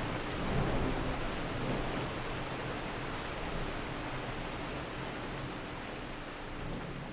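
Steady rain falling in a city, an even hiss with scattered faint drip ticks. A low rumble swells about half a second in and eases off over the next couple of seconds.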